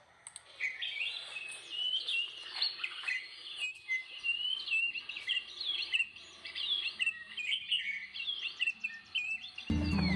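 Small birds chirping: a busy stream of short, overlapping high calls, with no single song standing out. Background music comes back in near the end.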